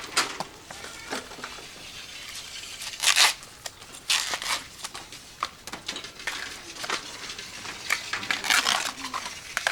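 Irregular rustling and crinkling in short bursts, with the loudest bursts about three seconds in and again near the end.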